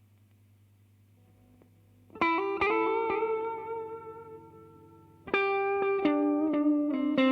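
Electric guitar played through a reverb and delay pedal. After about two seconds of faint amp hum, a chord rings out and slowly fades, then a second phrase of picked notes starts about five seconds in.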